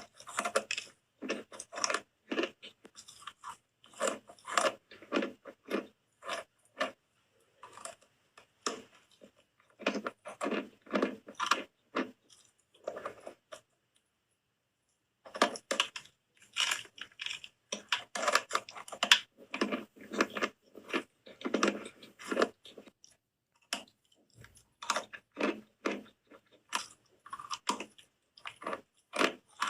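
Close-miked biting and chewing of soap: clusters of quick, crisp crunches, with a pause of about two seconds halfway through.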